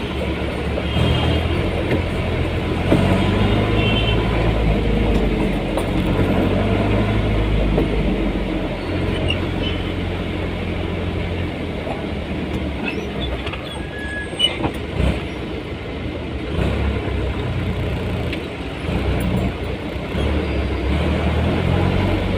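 Motor vehicle running through city traffic: a steady low engine hum and road noise whose pitch rises and falls as it speeds up and slows, with a few faint short high-pitched sounds above it.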